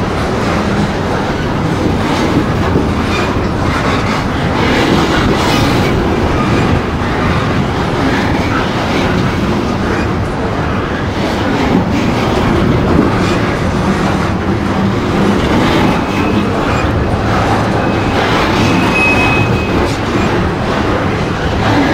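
Loaded coal hopper cars rolling past close by: a steady rumble with wheels clicking over the rail joints. Brief high wheel squeals come near the start and near the end.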